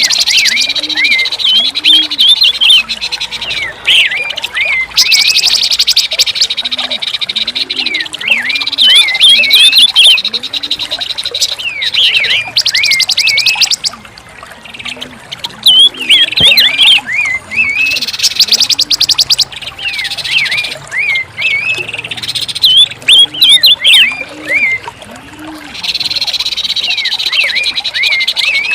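Recorded song of a pancawarna bird: bursts of fast, high chirping whistles and rattling trills, played to coax a bird that has stopped singing back into song. Runs of a low, repeated arching note sound beneath the chirps.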